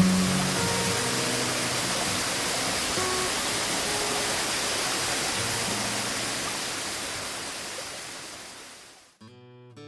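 Steady rushing noise with faint background music, fading out over the last few seconds; gentle acoustic guitar music starts near the end.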